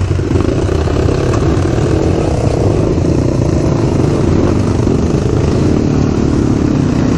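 Crossfire RM250 dirt bike's engine running steadily while riding, with wind and road noise on the microphone.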